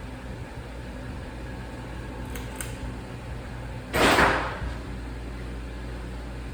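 Antique brass ceiling fan running with a steady low hum and some bearing noise from its motor. Two faint clicks come a little past two seconds in, and about four seconds in there is a sudden loud rush of noise lasting about half a second.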